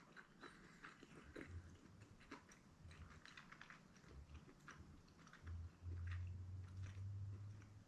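A person chewing fried popcorn chicken with the mouth close to the microphone: soft, faint crunches and small wet clicks. A low steady hum starts about two thirds of the way in and runs on to the end.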